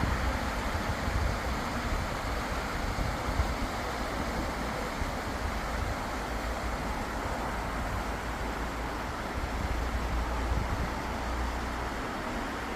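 Wind buffeting the microphone as a low, fluttering rumble, over a steady rushing noise.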